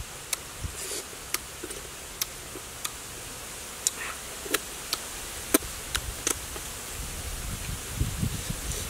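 A person chewing and smacking his lips while eating honeycomb and dragon fruit: scattered sharp wet clicks over a steady hiss.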